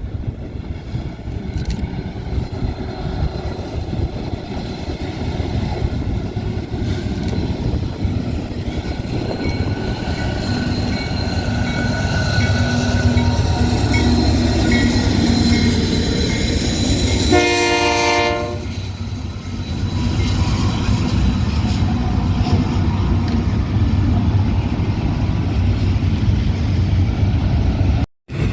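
A train passing close by, a steady low rumble of locomotive and wheels on the rails that grows louder about halfway through, with one horn blast about a second long around seventeen seconds in.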